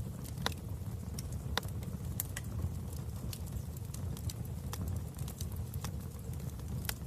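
Wood fire burning in a fireplace: a dozen or so sharp, irregular pops and snaps over a steady low rumble of flames.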